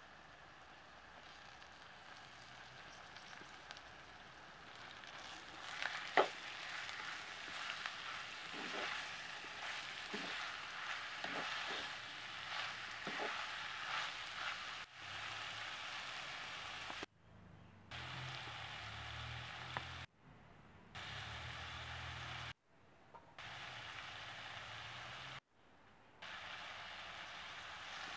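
Sliced onions and green capsicum sizzling as they fry in coconut oil in a clay pot, with a metal spatula clicking and scraping against the pot as they are stirred. The sizzle starts faint and grows louder about five seconds in, then cuts out briefly several times near the end.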